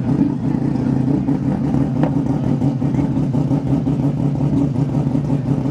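Mazda rotary-engined racing car idling steadily.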